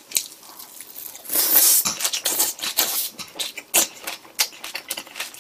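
Close-up mouth sounds of biting into and chewing a piece of breaded fried pork cutlet (tonkatsu): a loud crunch about a second and a half in, then a run of quick crackling chews.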